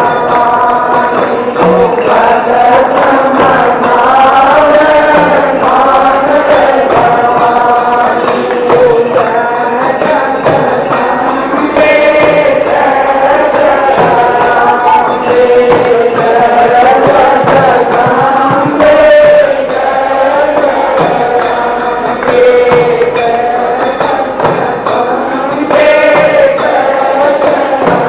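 Devotional Hindi bhajan sung in a chanting style with instrumental accompaniment and a steady drum beat, from an old 1985 jagran recording.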